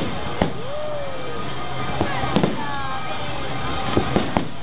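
Aerial firework shells bursting: a string of sharp bangs, some in quick pairs, going off every second or two.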